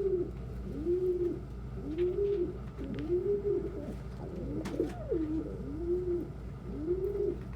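Domestic pigeons cooing, a low coo that rises and falls, repeated about once a second. A brief click and a different wavering coo come about midway.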